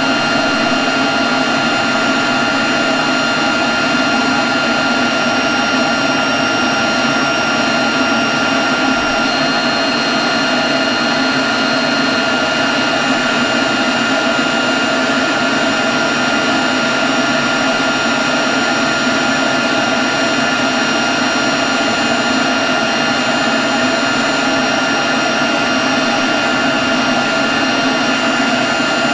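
Leaf blower running at a constant speed: a steady rush of air with a high, unchanging whine.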